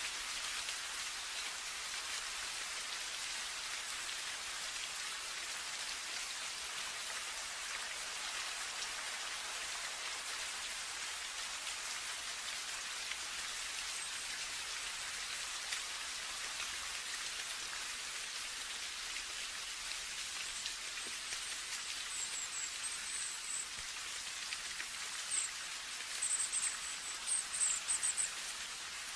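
Steady rain falling, an even hiss of many drops. Near the end a few short, high chirps come through over the rain.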